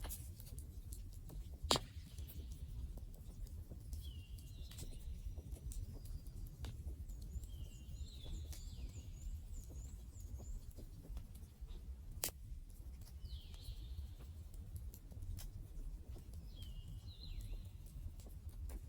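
Wood campfire burning, with a low steady rumble of flames, irregular light crackling, and a few sharp pops from the burning wood. Short, high chirps recur throughout.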